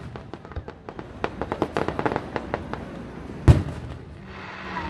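Aerial fireworks: a rapid run of crackling pops for the first few seconds, then a single loud shell burst about three and a half seconds in.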